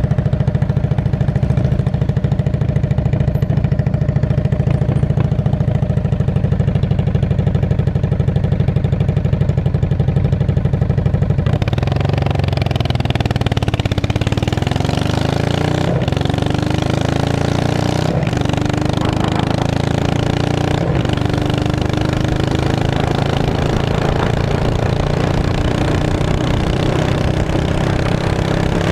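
Straight-piped 2002 Yamaha V-Star 650 V-twin running with open, unmuffled exhaust. It holds a steady note at first. About twelve seconds in, the sound changes: a rushing noise joins it and its note climbs slowly.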